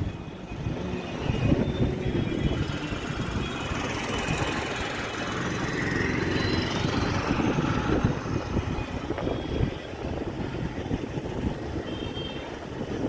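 Train running on rails: a continuous rumble and clatter of wheels over the track, with high metallic wheel squeals that come and go.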